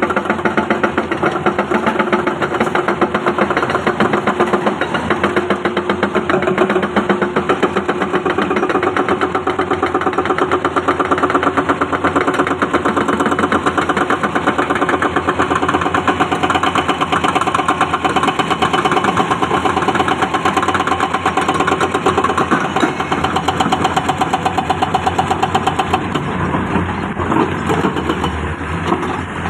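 Diesel engine of heavy earthmoving equipment (excavator or dump truck) running steadily with a rapid pulsing beat, easing and turning less regular near the end.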